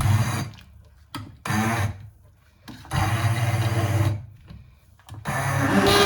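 A small electric kitchen appliance's motor run in short pulses: four bursts of whirring of about half a second to over a second each, the longest about three seconds in, with a short click after the first.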